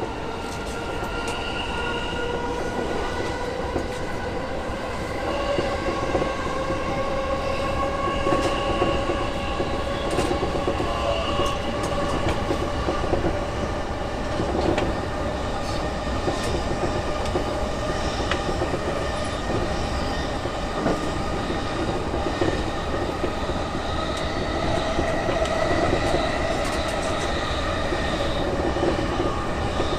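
JR E233 series 6000 electric train running on the line, heard from on board. Its motor whine holds several steady tones that climb slowly in pitch for the first dozen seconds as it gathers speed, then level off. Underneath are a low wheel rumble and scattered clicks from the rails.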